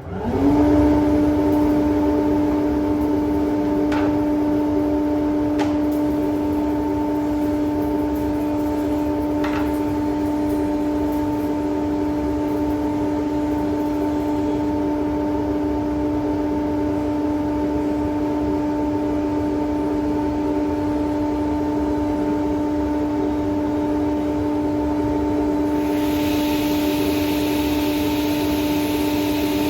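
An electric motor, most likely a power tool's, runs at a constant speed, giving a loud, steady hum over a low rumble. A hiss joins in near the end.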